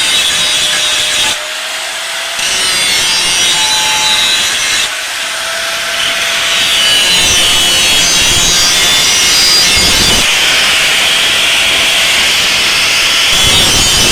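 Fodder chopping machine (chaff cutter) running and cutting green fodder, a loud continuous rasping noise that dips briefly twice in the first five seconds.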